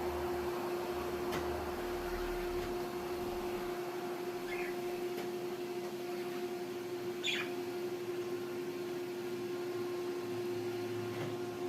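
A robot vacuum running with a steady hum. A cockatiel gives a short chirp about four seconds in and a louder, sharper call about three seconds later.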